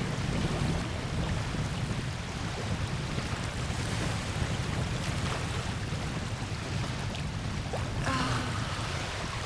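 Lake Ontario waves rolling onto the shore in a steady wash, with wind rumbling on the microphone.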